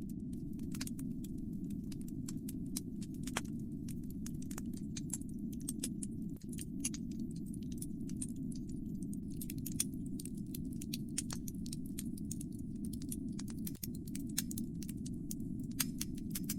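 Wood fire burning in a fireplace: sharp irregular crackles and pops over the steady low rumble of the flames.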